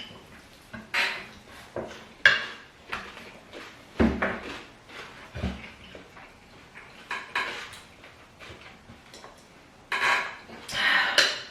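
Cutlery clinking and scraping against plates in scattered short strokes during a meal, with two duller knocks about four and five and a half seconds in and a busier run of scraping near the end.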